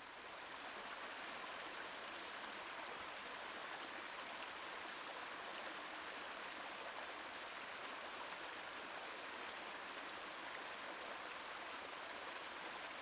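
Small river cascading over rocks: a steady rush of water that swells up over the first second, then holds even.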